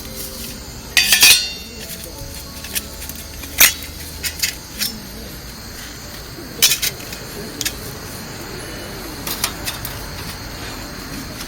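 Irregular sharp clinks and knocks of things handled against a small metal wood stove, the loudest cluster about a second in, with scattered single knocks after.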